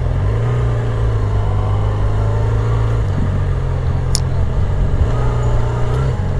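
Yamaha R6 sport bike's inline-four engine running steadily at low revs as the motorcycle rolls slowly, under a continuous low rumble.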